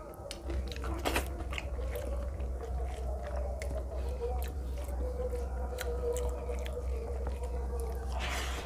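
A person chewing and biting on mouthfuls of rice and fish curry eaten by hand, with many short wet mouth clicks. A steady low hum runs underneath from about half a second in.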